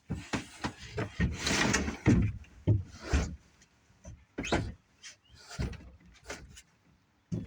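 Wood being handled: irregular knocks and short scraping rubs, a few a second at first and sparser toward the end.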